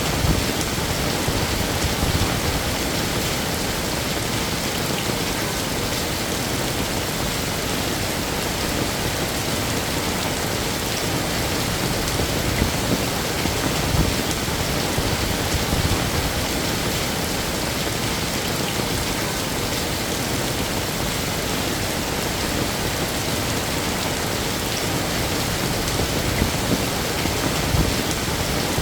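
Heavy rain falling steadily, a dense even hiss with scattered louder drop impacts.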